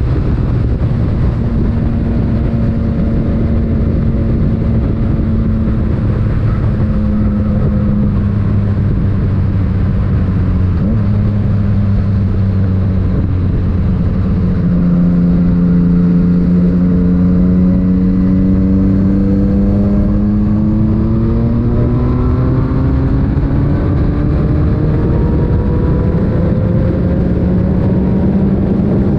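Yamaha MT-09 three-cylinder engine with an Akrapovic titanium exhaust running under way, with wind and road noise. The engine note sags a little through the first half, then rises steadily as the bike gains speed over the second half.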